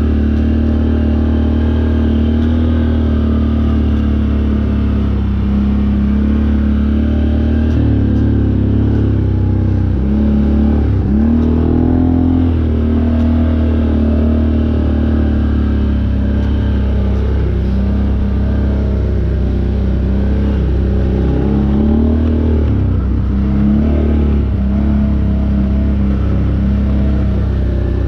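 Off-road vehicle engine running steadily under load. The throttle lets off and comes back on a few times, so the engine note dips and rises again about ten seconds in and again a little past twenty seconds.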